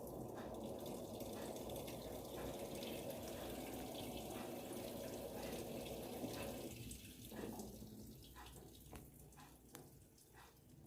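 Panasonic 14 kg washing machine taking in water, a steady rush of water into the drum that fades out about seven seconds in, leaving only a few faint ticks.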